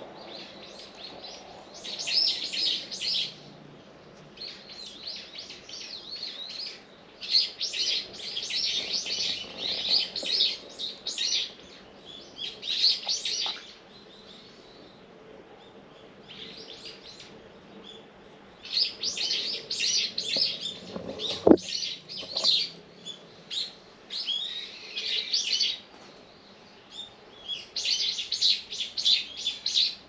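Small birds chirping in repeated bouts of rapid, high notes, with quieter gaps between the bouts. A single sharp knock about twenty seconds in.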